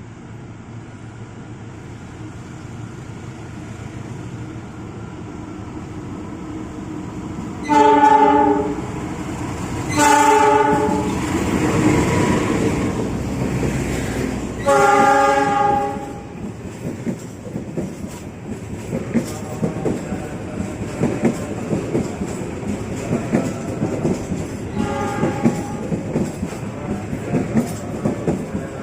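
A train coming in and passing, growing louder, sounding a multi-tone horn in three loud blasts of about a second each and a fainter fourth near the end. After the horn its wheels clatter rhythmically over the rail joints as the cars go by.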